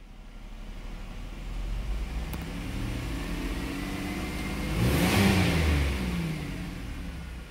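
2004 Buick LeSabre's 3.8-litre V6 revving, heard from inside the cabin: the pitch climbs gradually to a peak about five seconds in, then falls back toward idle.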